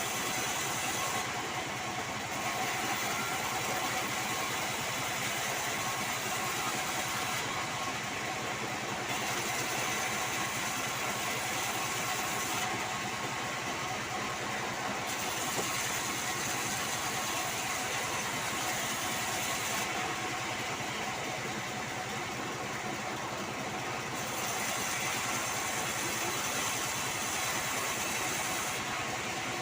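Band sawmill running steadily while sawing sengon wood. A high hiss in the sound drops away and returns every few seconds.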